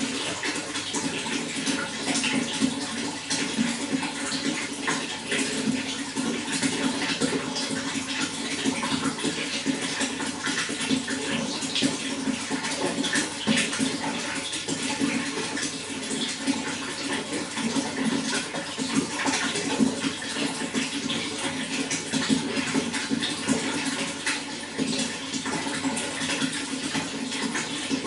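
Running water flowing steadily, with a continuous scatter of small splashes and droplet ticks.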